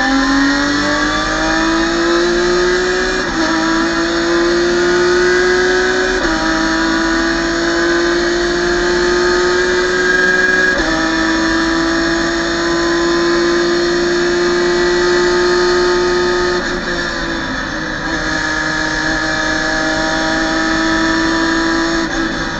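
BMW M3 race car engine running at full throttle, heard from inside the cockpit. The revs climb with quick upshifts about three, six and eleven seconds in, then hold high, with a brief dip about seventeen seconds in.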